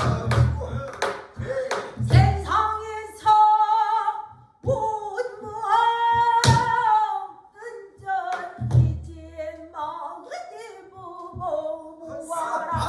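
Pansori singing: a solo voice holds long, wavering notes with heavy vibrato, accompanied by the buk barrel drum, whose low strokes and sharp knocks come at the start, about two seconds in, past the middle and at the end.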